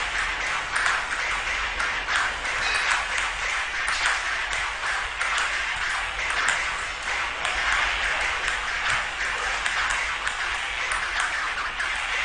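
Table-tennis ball struck back and forth with nunchaku, a string of sharp clicks at an irregular pace of roughly one a second, over a steady hiss.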